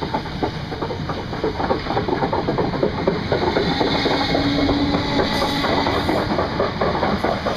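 Class 455 electric multiple unit rolling past close by as it pulls out, its wheels rumbling and clattering on the track. A steady tone joins in for about two seconds midway.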